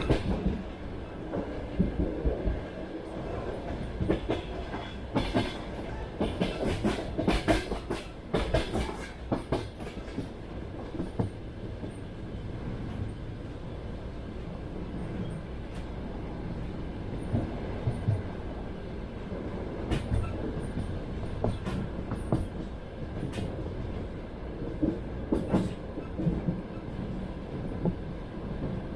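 Train wheels clattering over the rails while the carriage runs along: a steady low rumble, with clusters of sharp clacks at the rail joints through the first ten seconds and again near the end, and a smoother stretch in between.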